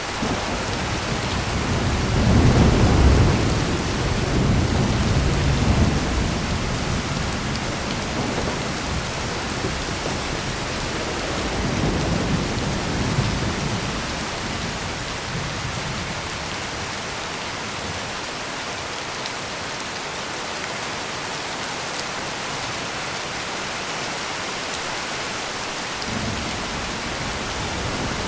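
Heavy rain falling steadily, with thunder rumbling low. The loudest roll comes a few seconds in and lasts several seconds, a second roll comes about halfway through, and a fainter one starts near the end.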